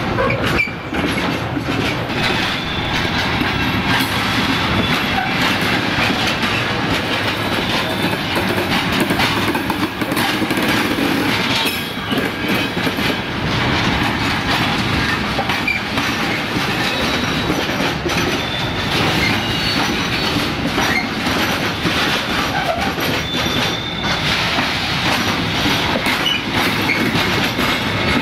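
Freight wagons of a long container and trailer train rolling past, steel wheels clattering over the rail joints in a continuous clickety-clack, with brief high wheel squeals now and then.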